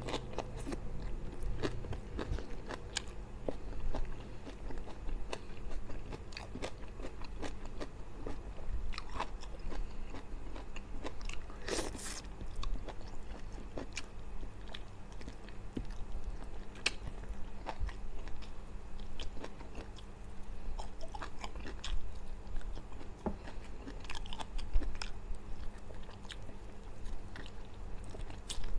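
Close-miked chewing and eating mouth noises of a man eating rice and sambal-coated fish with his fingers: many small irregular clicks and smacks. About twelve seconds in comes one louder, longer noise.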